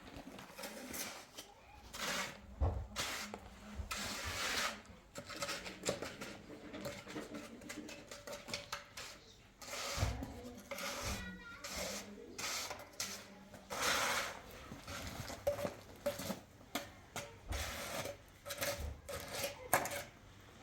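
Hand tools scraping and working wet cement mortar in a series of uneven strokes, which come shorter and quicker near the end.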